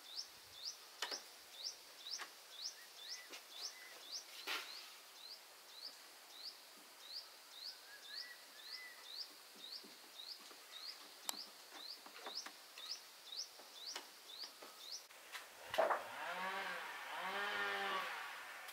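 A bird repeating a short, upward-hooked, high chirp two to three times a second, with a few sharp knocks in between. Near the end the chirping stops and a louder pitched, voice-like sound with rising and falling tones takes over.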